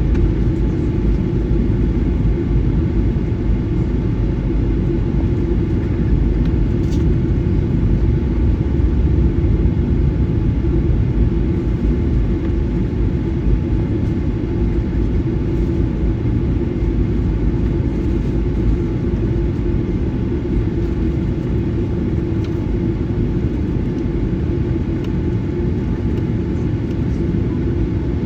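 Steady cabin rumble inside a Boeing 737-900ER with its twin CFM56-7B turbofan engines running, easing slightly in loudness in the second half.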